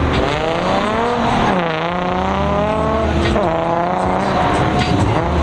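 A car engine revving, its pitch climbing and dropping back three times.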